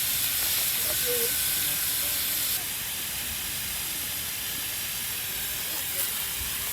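Steady hiss of steam escaping from a pressure cooker cooking beans over a wood fire. The hiss drops a little in level about two and a half seconds in.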